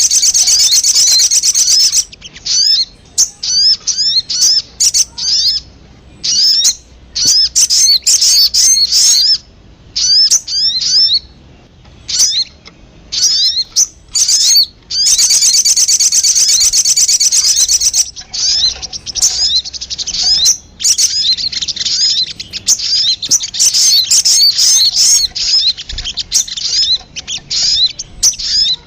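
Sogon bird calls played as a trapping lure: high, fast trills near the start and again about halfway through, with quick runs of short sweeping chirps between them.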